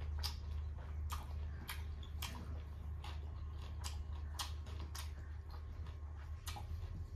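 A person chewing rice and pork gravy, with irregular wet mouth clicks and smacks every half second to a second. A steady low hum runs underneath.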